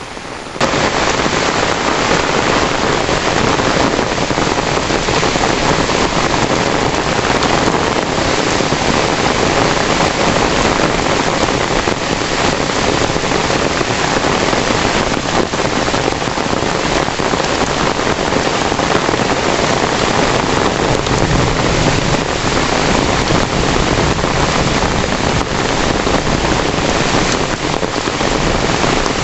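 Heavy rain falling steadily, a dense even hiss that comes in about half a second in.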